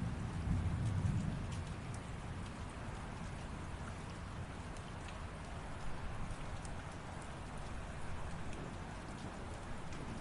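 Steady light rain, an even hiss with scattered drops ticking. A low rumble of distant thunder fades away in the first second or so.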